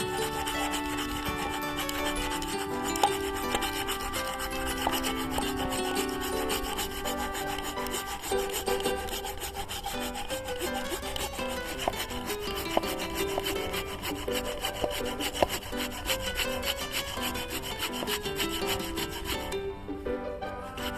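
Cheap handsaw rasping through a wooden log in continuous back-and-forth strokes, with background music underneath.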